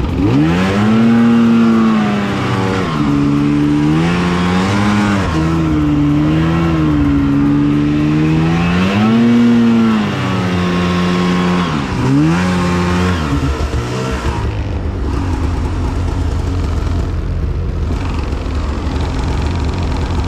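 Two-stroke snowmobile engine revving up and down repeatedly, its pitch rising and falling with the throttle. For the last third it drops to a steady low run.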